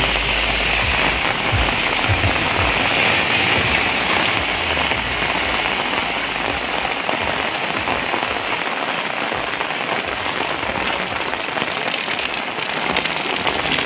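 Heavy rain falling steadily on a wet street, an even hiss that holds through without a break.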